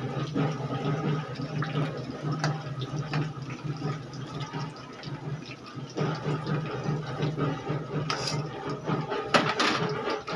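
Hot oil sizzling and bubbling in a kadhai during deep-frying, over a steady low hum, with a couple of sharp utensil knocks near the end.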